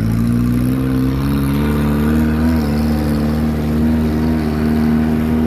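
Jeep engine running steadily while driving, its pitch stepping up about a second and a half in and then holding.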